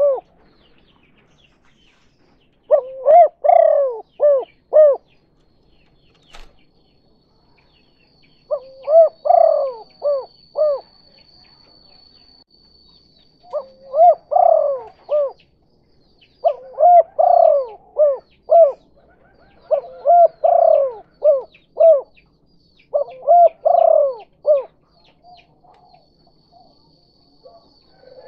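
Spotted dove (tekukur) cooing its 'kuk 2' call: short phrases of several quick rising-and-falling coo notes, repeated six times with pauses of a second or more between them. A faint, steady, thin high tone runs underneath for part of the time.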